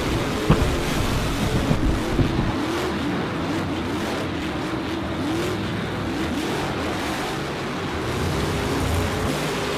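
Race-car engine sound, revving up and down over and over in repeated rising and falling sweeps, with a few sharp knocks in the first couple of seconds.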